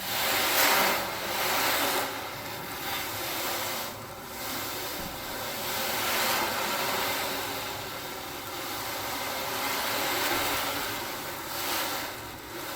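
Ocean drum tilted back and forth, the beads inside rolling across the drumhead in a rushing hiss that swells and fades every second or two, imitating waves breaking on a shore.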